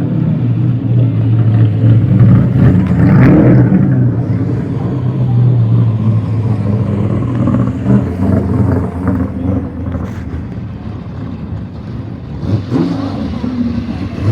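Mustang and Camaro muscle car engines rumbling at low speed as the cars come up to the pit. The sound is loudest a few seconds in and eases off after the middle.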